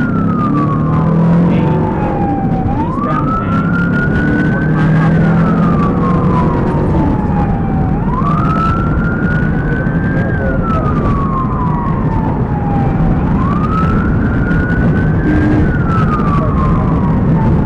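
Police car siren sounding a slow wail, rising and falling about every five seconds, over the loud rumble of the patrol car's engine and road noise during a high-speed pursuit.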